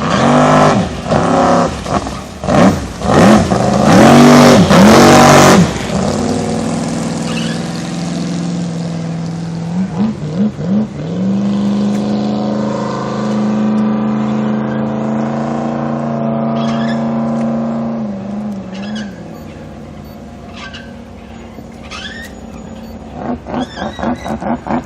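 Custom jet boat's big-block V8 (a 464 bored .060 over) revving up and down in repeated quick blips, loudest about four to five seconds in. It then settles into a steady run with a couple of short revs and fades away in the last few seconds.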